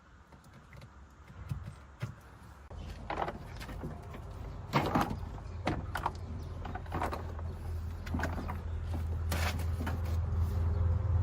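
A low mechanical hum that grows steadily louder, with several sharp knocks and clanks over it, about five in all.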